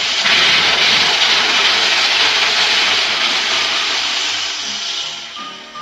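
Loud, steady rushing hiss from the room's faulty plumbing, starting suddenly and slowly fading near the end.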